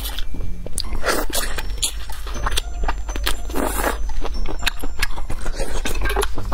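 Close-miked chewing of crayfish meat: a dense run of wet mouth clicks and smacks with some crunching, and two louder noisy bursts, one about a second in and one near the middle, over a steady low hum.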